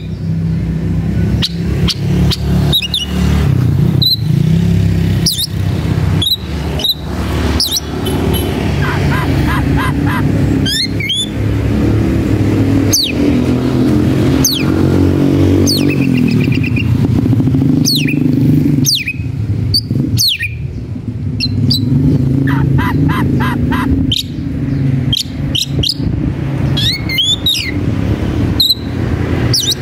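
Oriental magpie-robin (kacer) singing agitated, challenging song: repeated sharp down-slurred whistles broken by fast rattling trills. A steady low rumble runs underneath throughout.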